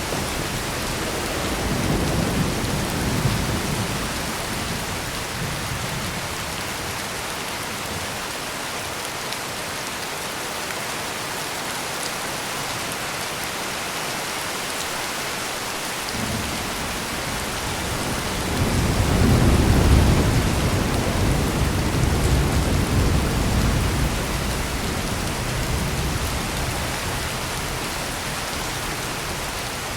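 Heavy rain pouring steadily, with thunder rolling twice: a short low rumble a couple of seconds in, and a longer, louder rumble past the middle that slowly dies away.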